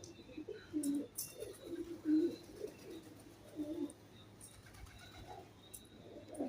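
Pigeons cooing, a run of low repeated coos, with a few short sharp ticks mixed in.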